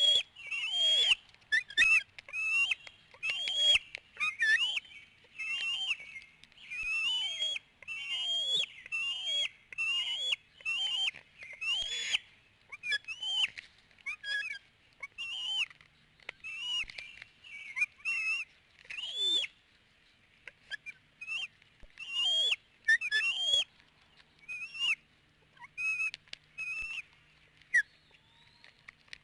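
Bald eaglets giving high-pitched, whistled food-begging calls, about two a second, each call arching in pitch. The calls get sparser and fainter in the last third.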